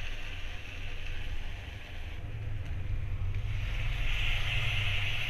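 Spiced masala sizzling in oil in a frying pan over a steady low rumble; the sizzle dies down briefly, then grows louder about three and a half seconds in as tomato puree is poured into the hot pan.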